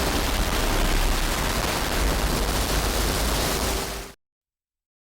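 Steady rushing noise spread evenly across the range, heaviest in the deep lows, that cuts off suddenly about four seconds in, leaving dead silence.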